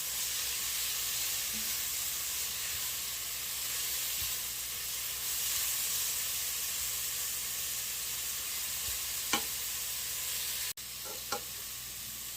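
Seasoned vegetables sizzling steadily as they cook down in a pot. There are two light clicks near the end, with a brief break in the sound between them.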